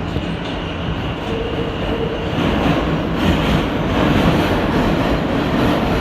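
New York City subway train running on the rails, a steady rumble and rattle of wheels and car body that grows louder about two seconds in.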